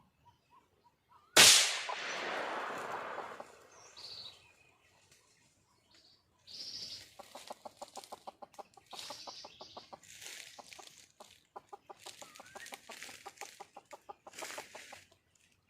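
Red junglefowl hen calling with trains of rapid clucks, about ten a second, in bursts through the second half; this is the wild hen's call for a male. A little over a second in, a sudden loud burst of noise dies away over about two seconds.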